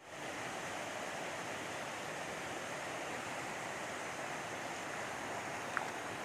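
River water rushing steadily. A brief high chirp sounds near the end.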